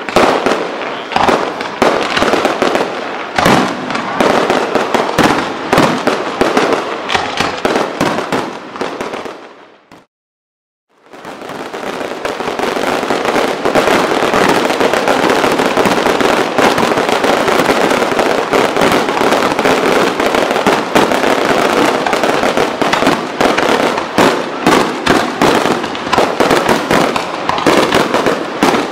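Fireworks display: many aerial shells bursting in rapid, overlapping bangs with crackle. It fades out and drops to silence for about a second, about a third of the way in, then comes back as a dense, unbroken barrage of bangs and crackling.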